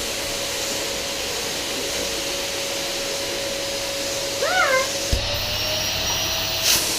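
Vacuum cleaner running steadily with a new bag fitted, a constant motor whine over the rush of air. About four and a half seconds in, a brief wavering call rises and falls once, followed by a knock.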